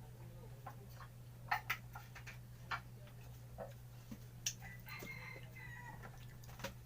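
Chickens clucking: a few short, sharp clucks and a longer wavering call about five seconds in, over a steady low hum.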